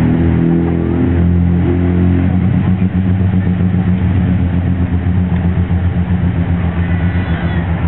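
Piston aircraft engine droning steadily overhead, its pitch shifting slightly about two seconds in and its sound pulsing through the second half.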